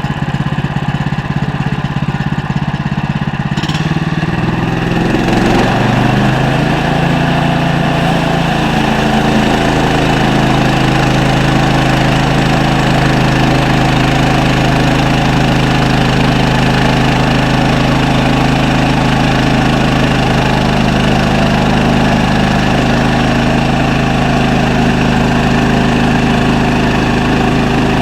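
Sawmill engine running; about four seconds in it speeds up, rising in pitch over a couple of seconds, then runs steady at the higher speed.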